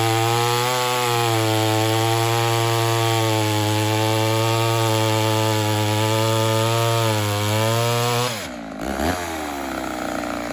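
Two-stroke chainsaw running at high revs through a cut in a log, its pitch steady with slight dips. About eight seconds in the engine note drops sharply as the throttle is let off and the saw comes out of the cut.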